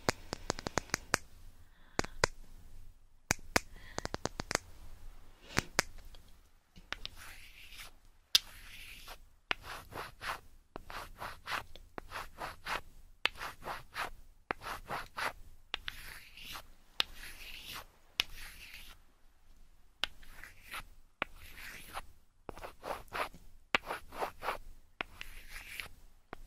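Fingers scratching and rubbing right on an ASMR microphone's ear, with sharp clicks, in repeated scratchy strokes that settle into about one group a second.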